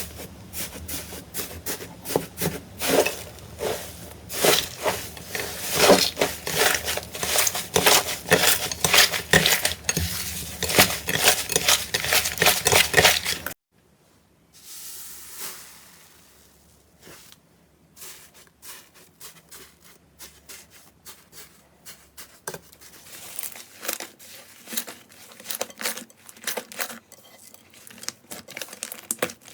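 Slime being squeezed and pressed by hand, making a dense, fast run of crackles, clicks and pops. About halfway through the sound cuts off abruptly, and after a brief pause a quieter, sparser crackling and popping of slime follows.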